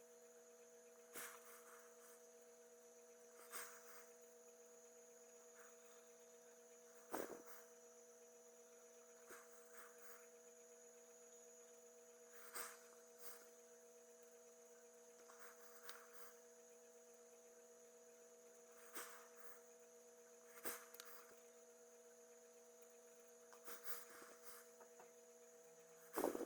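Near silence: a faint steady electrical hum with a few scattered light taps and clicks, the loudest about seven seconds in and at the very end.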